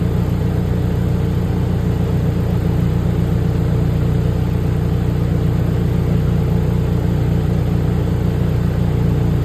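Exhaust of a Toyota Prado's 2.4-litre turbocharged four-cylinder petrol engine (T24A-FTS), idling steadily with an even low note.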